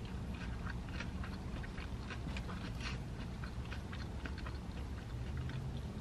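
Person chewing a mouthful of fried mozzarella stick with lips closed: many small wet mouth clicks and smacks over a steady low hum.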